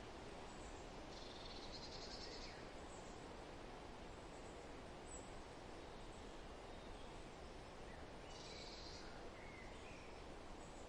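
Faint forest ambience: a steady rush of wind through foliage, with a small songbird giving a short high trill about a second in and again near eight seconds, and a couple of faint chirps after the second trill.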